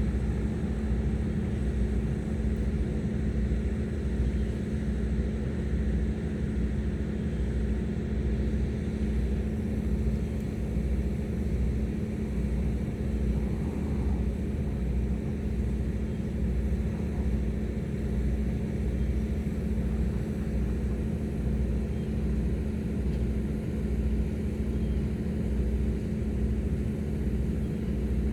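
A high-speed passenger ferry's engines running steadily: a constant low drone with a strong even hum and a regular throb underneath.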